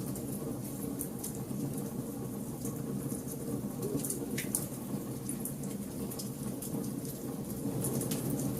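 Bonfire burning: a steady low rumble of flames with frequent short, sharp crackles and pops scattered throughout.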